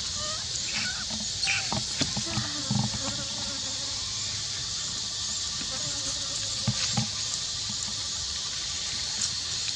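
Steady high-pitched insect chorus, with a few short knocks and faint distant voices now and then.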